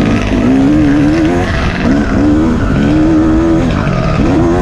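Dirt bike engine revving up and down through the throttle as it is ridden off-road. The pitch climbs and holds, drops about a second and a half in, climbs again, and falls away near the end before rising once more.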